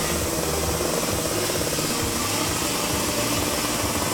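Vehicle engine running at a steady low speed, without revving.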